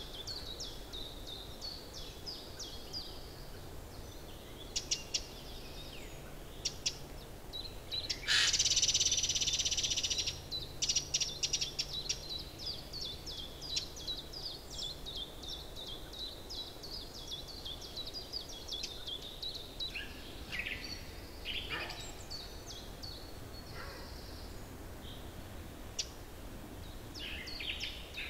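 Small forest birds chirping and calling repeatedly, with a loud, harsh two-second burst about eight seconds in.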